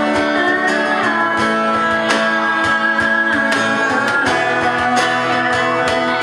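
Music: guitar playing, with plucked notes at a steady pulse over sustained chords.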